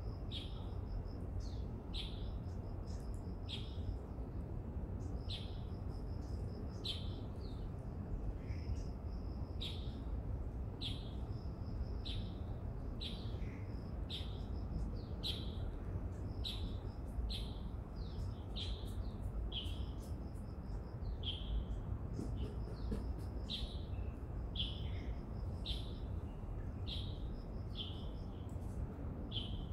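Bird calling: a short, high, downward-slurred note repeated about once a second. A higher series of short pulsed notes comes in at intervals, over a steady low rumble.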